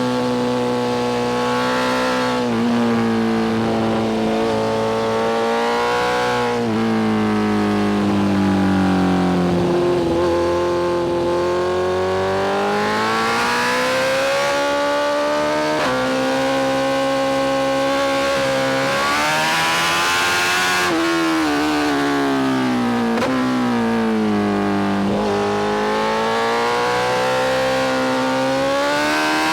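2024 BMW S1000RR inline-four engine through a full titanium Spark exhaust, ridden on the road, its revs climbing and dropping several times with sudden steps in pitch.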